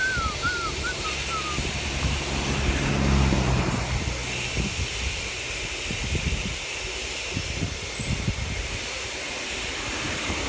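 Wind rushing and buffeting over the microphone of a camera on a moving bicycle. Birds chirp in the first second or so, and an engine hum swells and fades around three seconds in.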